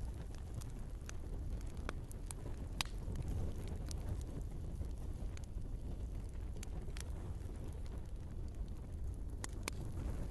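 Wood fire burning in a fireplace: a steady low rumble of flames with scattered, irregular crackles and pops from the logs.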